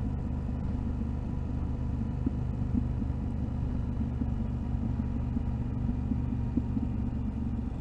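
Yamaha Ténéré 700's parallel-twin engine running at a steady pitch while riding, with a low rumble of road and wind noise.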